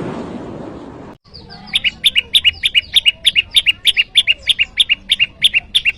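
Olive-backed tailorbird (prenjak lumut) calling a fast, even series of sharp chirps, about six a second, starting a little under two seconds in. This is its rival-challenging call. A fading hiss fills the first second.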